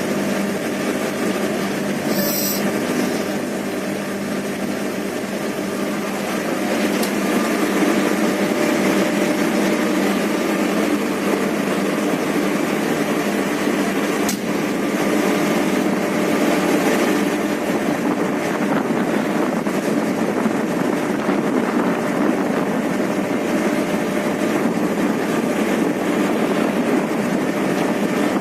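Steady running noise of a train heard from inside the locomotive cab, the engine and wheels on the rails together, growing a little louder about seven seconds in. One sharp click about fourteen seconds in.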